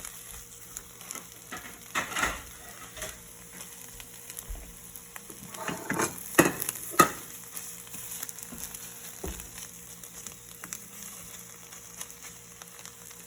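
Food frying in a pan with a steady sizzle, broken by a few sharp knocks about two seconds in and again around six to seven seconds.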